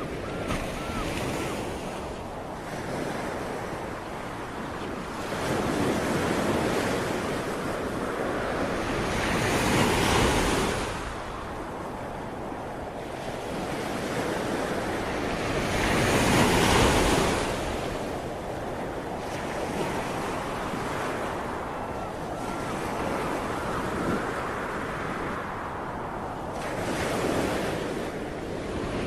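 Ocean waves washing onto a shore: surf rising and falling in slow surges, the biggest about ten seconds in and again about sixteen to seventeen seconds in.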